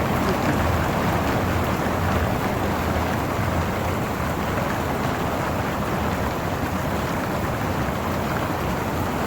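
Steady rushing noise, even throughout, with no separate strikes or tones.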